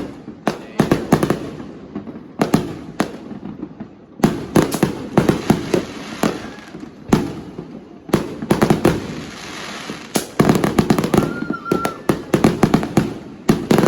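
Fireworks and firecrackers going off in rapid, irregular volleys of bangs and crackling, with a brief whistle about eleven seconds in.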